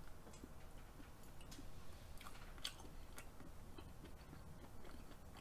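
Close-miked chewing of a mouthful of soft raw food, faint, with scattered small wet mouth clicks.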